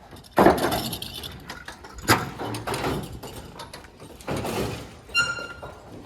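Several knocks and scrapes of objects being handled, the loudest about half a second in, then a metallic clank that rings briefly about five seconds in.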